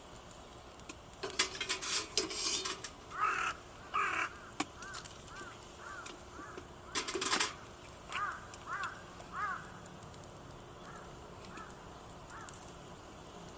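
Crows cawing repeatedly, a run of short calls, with a few loud rustling or clattering noises of camp gear in between.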